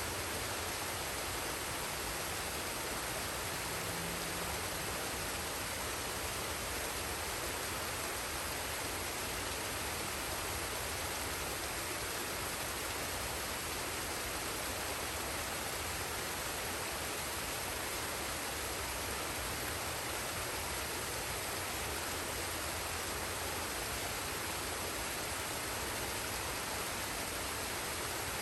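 Forest waterfall and stream, water falling and rushing in a steady, even hiss.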